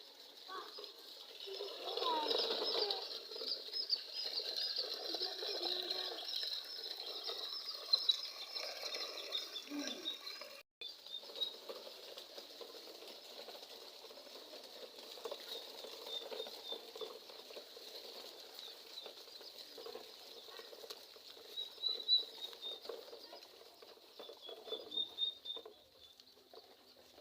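Small birds chirping in short high notes, with rustling and scraping underneath that is busiest in the first ten seconds.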